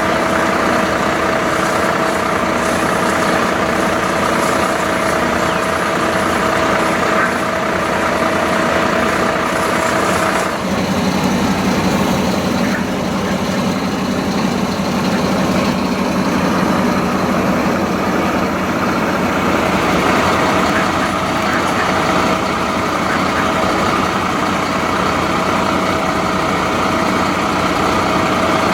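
Fire truck's diesel engine running steadily, its tone shifting lower about ten seconds in and returning near twenty seconds.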